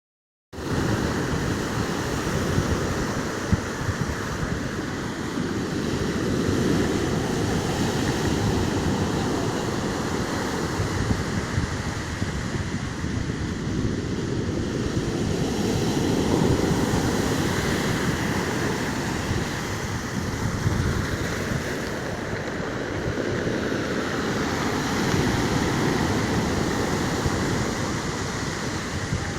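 Rough storm surf: waves breaking and rushing in a continuous wash that swells every few seconds, with wind buffeting the microphone.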